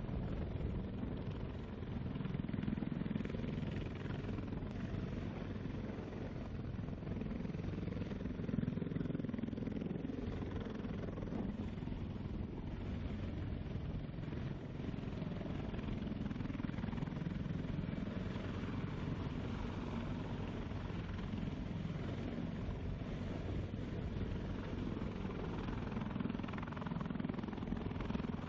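Heavy helicopter running, a steady low engine and rotor drone.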